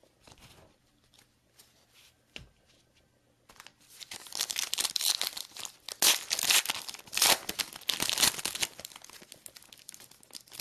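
A foil trading-card pack wrapper being torn open and crinkled. There are a few soft handling ticks at first, then loud tearing and crinkling from about four seconds in that lasts several seconds before easing off.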